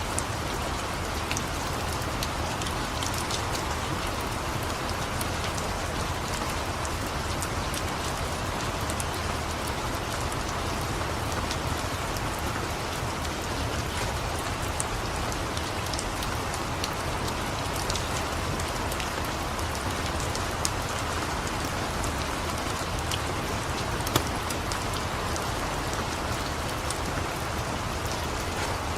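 Steady rain falling, with a wood fire crackling: scattered sharp clicks and pops over the even hiss, and one louder pop late on.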